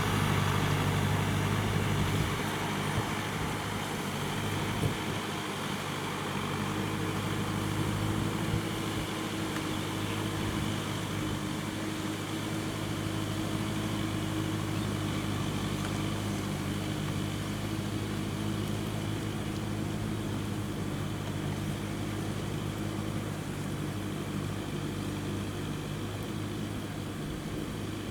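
Kubota M6040SU tractor's four-cylinder diesel engine running steadily under load while ploughing, a little louder in the first two seconds.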